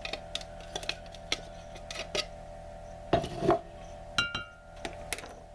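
Utensils and dishes clinking and tapping against a bowl as ingredients are added: a series of light separate taps, a duller knock a little after three seconds, and one short ringing clink about four seconds in, over a faint steady hum.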